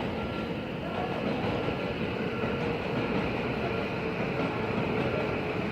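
Electric train running on the line, a steady rumble with a motor whine that sinks slightly in pitch near the end.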